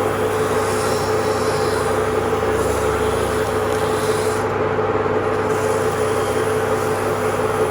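Steady machine noise with a constant hum, unchanging in level.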